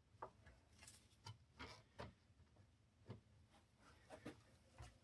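Faint, scattered light clicks and taps from tools and small parts being handled, with near silence between them.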